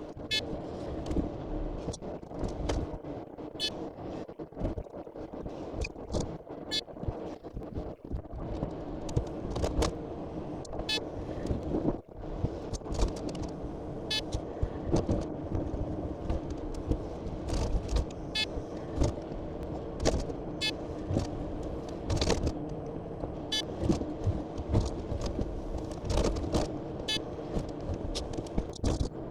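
Logging truck's engine running steadily under way, with frequent irregular knocks and rattles as it goes over a rough road.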